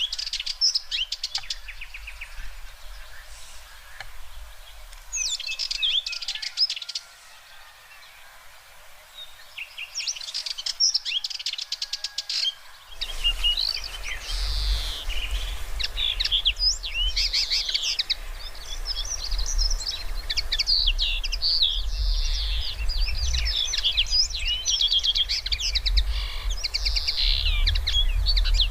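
Birds singing and chirping, with many quick rising and falling notes, sparse at first with a short lull, then dense and continuous from about halfway through. At that point a steady low rumble also comes in underneath.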